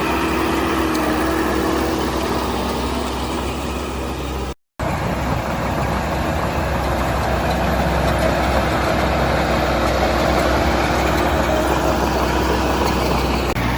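Heavy construction machinery's diesel engine running steadily, with the sound cutting out for a moment about four and a half seconds in.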